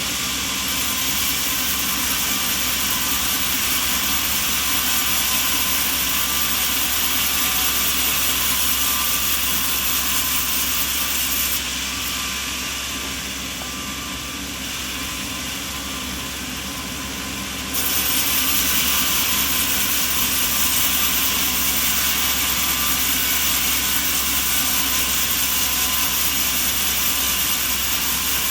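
Sawmill machinery running steadily: a continuous hissing, humming machine noise. The sound changes abruptly about twelve seconds in, turning slightly quieter and duller, and switches back about eighteen seconds in.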